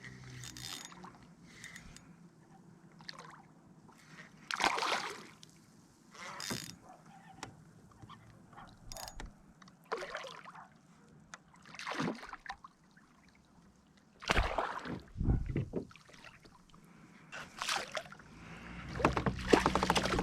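Intermittent water splashes and swishes around a fishing kayak, irregular and short, with a couple of low, heavy knocks about three-quarters of the way through.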